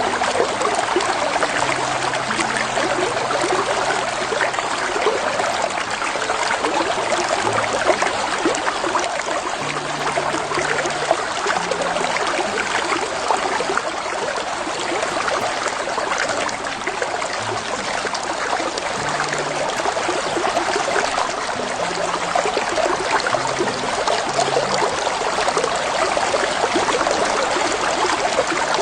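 Shallow creek flowing over a bed of rocks and pebbles: a steady rush of running water.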